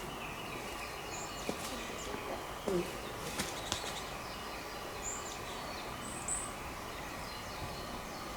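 Outdoor ambience with a few short, high bird chirps and several scattered light clicks or taps over a steady background hiss.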